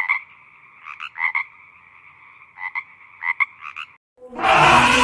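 Frogs croaking: short pulsed calls in groups of two or three over a steady background chorus, stopping about a second before the end. Near the end a much louder, rougher sound begins abruptly.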